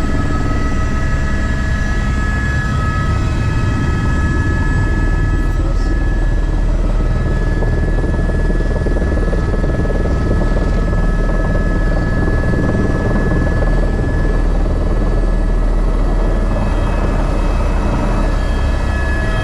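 Helicopter running steadily: a loud, constant deep drone with a few thin, steady high whining tones over it.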